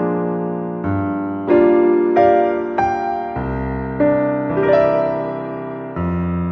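Background piano music: a slow, gentle melody with notes struck and left to ring.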